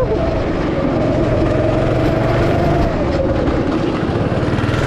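Go-kart engine running under way: a steady, fast pulsing buzz whose pitch holds roughly level and eases down slightly about three seconds in.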